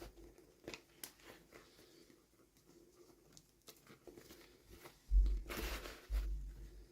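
Small plastic toy packaging being handled, with scattered light clicks and taps. About five seconds in comes a louder stretch of tearing and crinkling with a few low bumps, as the wrapping is pulled open.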